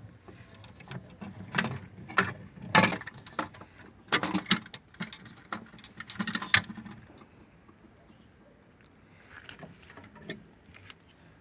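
Irregular clicks, knocks and plastic-and-metal clatter as a refrigerator thermostat is worked loose and pulled out of its housing. The handling noises cluster in the first half, then thin to a few faint ticks.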